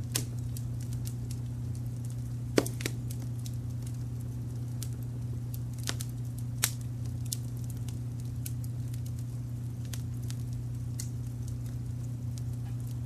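Wood fire crackling with irregular small pops and a couple of louder snaps, over a steady low brown-noise rumble.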